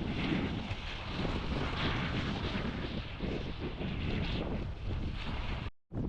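Wind buffeting the action camera's microphone, a gusty low rumble with hiss, possibly over surf; the sound cuts out for a moment near the end.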